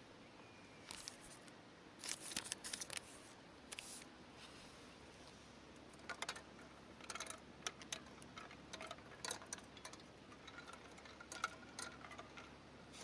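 Irregular small clicks and rustles, as of objects being handled close by, over a quiet background.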